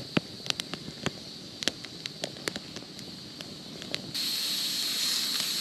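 Wood campfire crackling with scattered sharp pops, then about four seconds in a loud steady sizzle starts suddenly as steak begins frying on the hot cooking surface. Cicadas drone steadily underneath.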